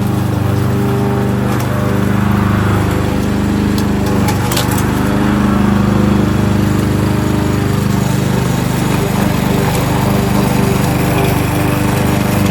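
Kohler XT-675 single-cylinder engine on a Yardworks push lawnmower running steadily at speed, with a brief sharp click or two about four seconds in.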